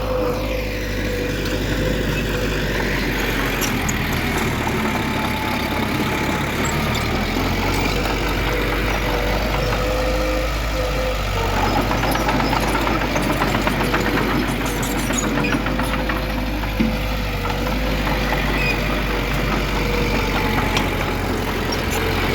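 Heavy earthmoving machinery engine running steadily, with a low rumble and a thin steady whine over it.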